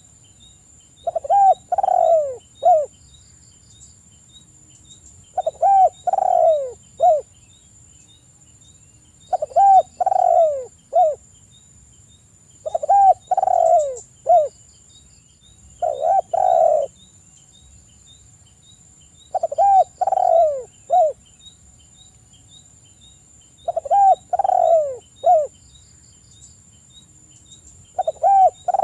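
Spotted dove (tekukur) cooing: a short phrase of three or four coos, repeated about every four seconds. A faint steady high tone with faint regular ticks runs underneath.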